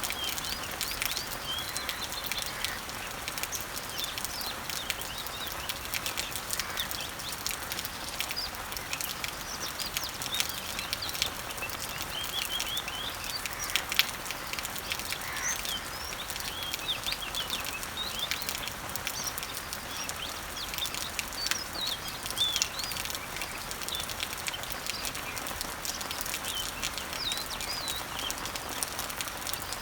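Rain falling on garden leaves and trees: a steady hiss dotted with many small drop ticks, with one louder drip about halfway. Small birds chirp over it throughout in short, quick calls.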